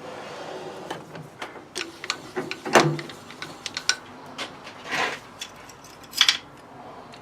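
Rummaging among metal tools for a drill chuck: a scattering of metal clicks and clinks with a few louder knocks, about three seconds in, five seconds in and near the end.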